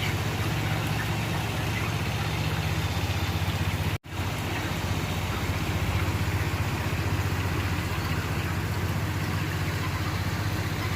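A steady motor hum over an even hiss. It cuts out for an instant about four seconds in, then carries on unchanged.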